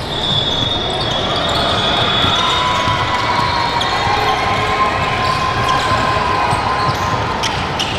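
Gym ambience during a youth basketball game: a ball bouncing on the hardwood amid players' and spectators' voices. Thin steady high tones come and go.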